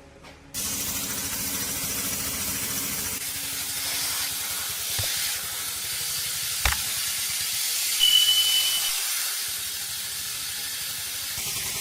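High-pressure spray hissing steadily, starting abruptly about half a second in, with a sharp click about two-thirds of the way through and a brief high whistle soon after.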